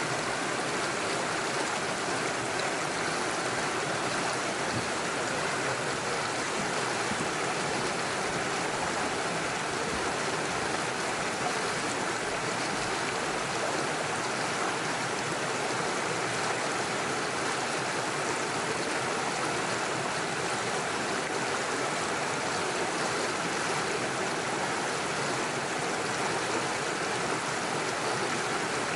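Small rocky forest stream flowing steadily over stones and little waterfalls, a constant rushing and babbling of water.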